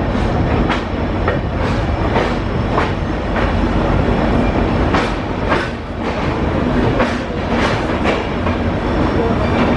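Rajdhani Express passenger train running at speed: a steady, loud rumble with repeated sharp clicks as the wheels pass over rail joints.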